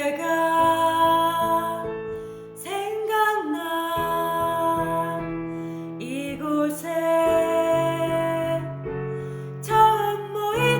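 Live band music in a song's intro, led by keyboard playing sustained piano-like chords that change every second or two.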